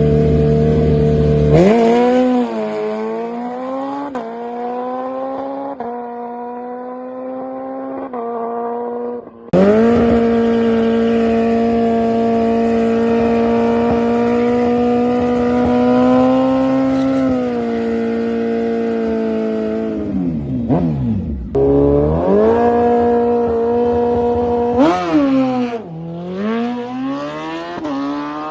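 Drag racing car engines running hard, their pitch climbing and then dropping in steps as gears change. About ten seconds in a louder, steady engine note starts suddenly. Near the end the pitch sweeps down low and climbs again.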